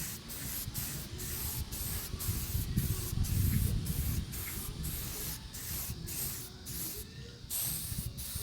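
Aerosol spray paint can spraying a hiss broken by brief gaps about twice a second, as the nozzle is pressed in short passes. Under it is a low rumble of wind on the microphone, strongest a few seconds in.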